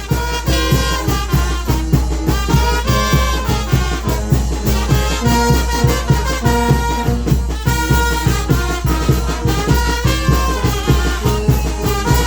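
A banda de viento, a Mexican wind band, playing: trumpets and trombones carry the tune over a steady beat.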